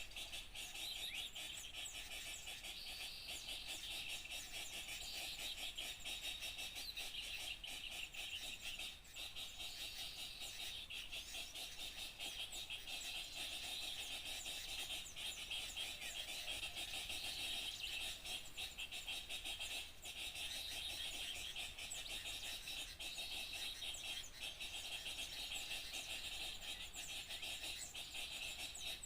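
Dense, unbroken chorus of many small songbirds chirping and calling over one another, a bird-lure recording that mixes several small species.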